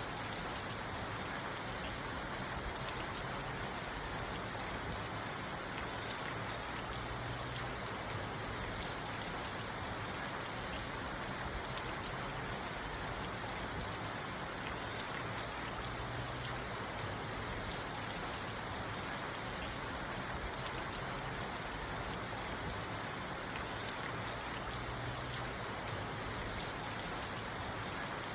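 Steady rain on a parked car, heard from inside the cabin, with faint scattered drop taps.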